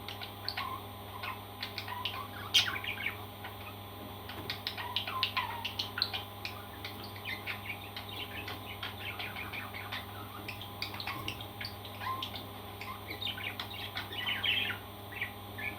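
Parrots chirping, with a rapid, continuous run of short high chirps and a few louder calls, over a steady low hum.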